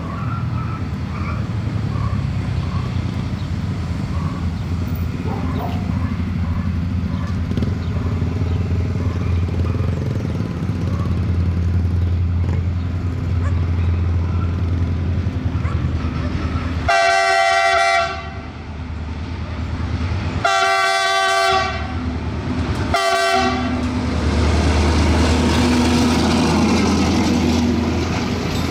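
Diesel train running past with a steady low engine rumble. It sounds its horn three times past the middle, the second blast about a second long and the last one short. Rushing rail noise grows near the end.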